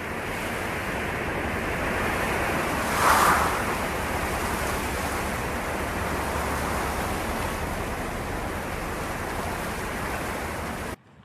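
Steady rushing noise, with a brief louder swell about three seconds in, cutting off abruptly near the end.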